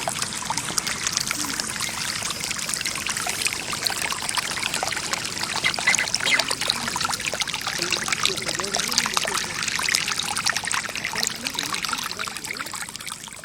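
Water trickling and pouring steadily, a dense run of many small splashing sounds.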